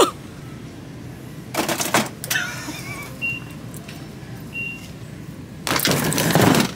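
Store background with a few clicks and two short faint beeps, then near the end a loud scraping rub for about a second as the camera brushes against a plastic syrup bottle.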